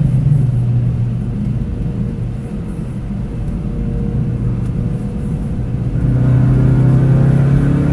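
Ford Focus RS engine heard from inside the cabin, off the throttle and dropping to a lower steady drone as the car slows for a corner. About six seconds in it comes back on the throttle and gets louder as the car accelerates.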